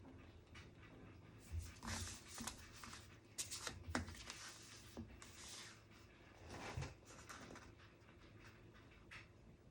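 Paper rustling and handling at a desk, with a few sharp clicks and brief scraping rustles in the middle, like pages or sheets being moved while studying.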